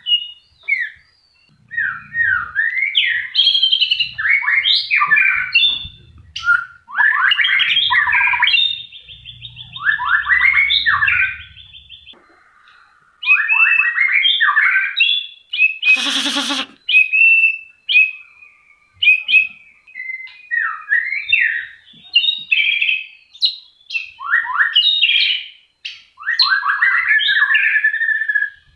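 White-rumped shama singing: a fast run of loud, varied whistled phrases and quick trills, including a long buzzy trill in the first half. Near the middle there is a short harsh rasp.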